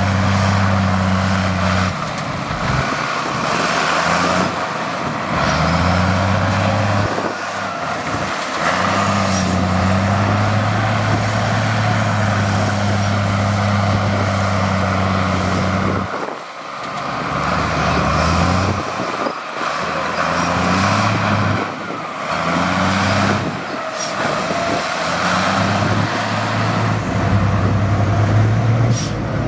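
Heavy diesel engine of earthmoving machinery running loud, its pitch dropping and rising again several times as the revs change under load.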